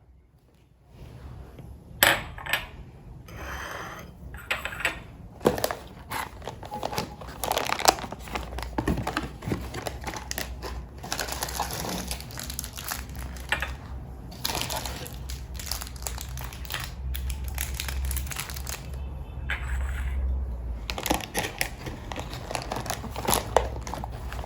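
Crinkling and crunching with sharp clicks and knocks of things being handled, over a low steady hum.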